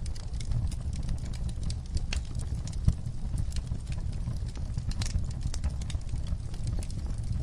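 Wood fire crackling in a fireplace: a steady low rumble of the flames with scattered sharp pops and snaps, one louder pop about three seconds in.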